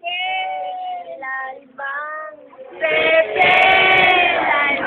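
Young voices singing in long held notes, several short phrases with brief breaks, then a fuller, louder held stretch in the second half.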